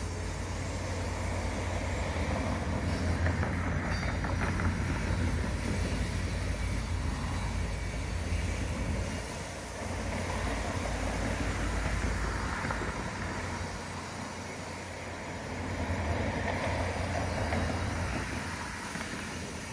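Caltrain Stadler KISS double-deck electric train cars, unpowered and towed by a diesel locomotive, rolling slowly past: a steady rumble of wheels on the rails that swells and eases as the cars go by.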